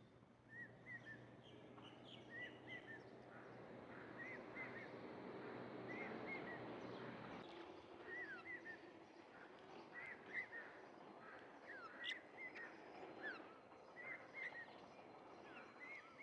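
Small birds chirping faintly: short high chirps, often in pairs, repeating every second or so over a steady background noise.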